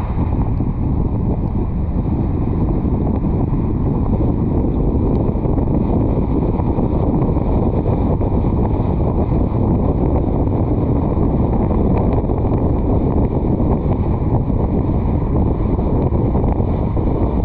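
Wind buffeting a roof-mounted action camera's microphone on a moving car, making a loud, steady, dense rumble.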